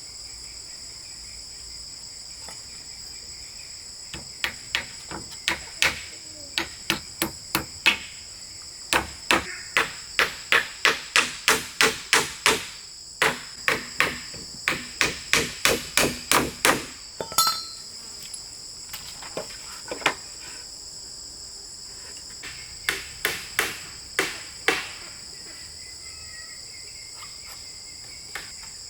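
Hammer blows on wood, in runs of quick strikes about two a second with short pauses between the runs. Insects keep up a steady high shrill behind them.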